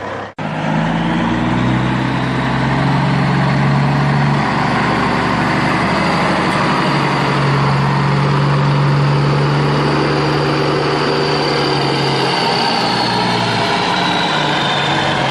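Steady engine idling sound of a truck-type vehicle, running without a break after a brief cut just after the start.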